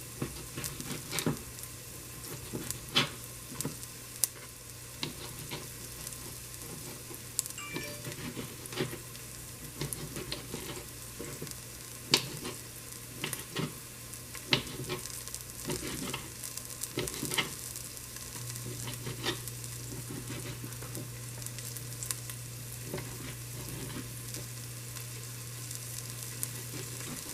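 Sliced onions and sweet peppers frying in olive oil, a steady sizzle, with frequent sharp clicks and taps scattered through it. A low steady hum grows louder about two-thirds of the way through.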